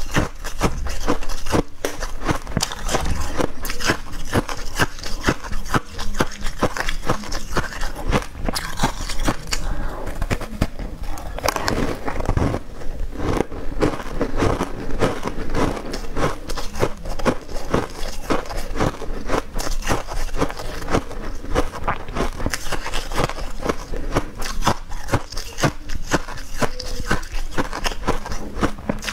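Close-up eating sounds: repeated bites and chewing of green-powder-coated Chinese sweet balls, with a dense, irregular crackle and crunch throughout.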